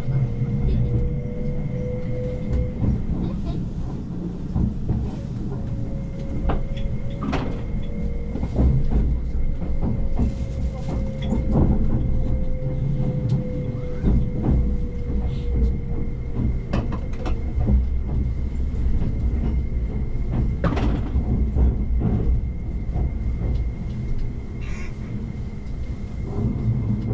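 Tobu Spacia X limited express train running on the rails: a steady low rumble with scattered clicks and knocks, and a faint whine that slowly falls in pitch.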